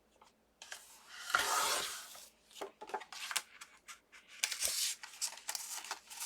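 Cardstock being cut: one loud rasping slice lasting about a second, starting just after a second in, followed by a string of small clicks and rustles as the paper is handled.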